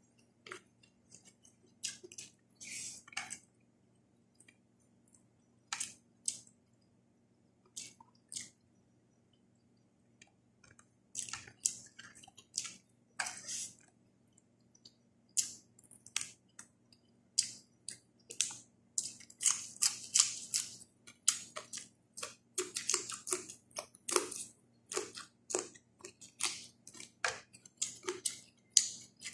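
Close-up mouth sounds of a person eating milkfish and fresh vegetables by hand: wet chewing and lip smacks in short, irregular clicks. They are sparse at first and come thick and fast from about eleven seconds in.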